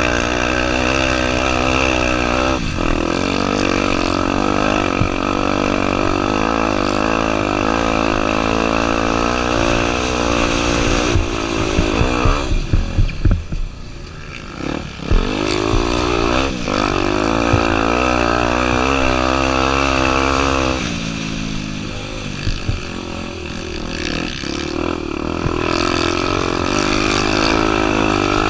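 Honda Tornado 250's single-cylinder four-stroke engine running under load, its pitch rising and falling with the throttle. About halfway through it drops off for a few seconds amid a scatter of sharp knocks, then picks up again.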